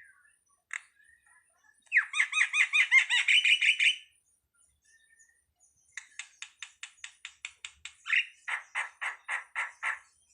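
Jalak (Asian starling) calling in repeated phrases: a rapid run of rising notes, about six a second, from about two to four seconds in. After a pause comes a quick series of dry clicks, which gives way to coarser, lower notes about five a second near the end.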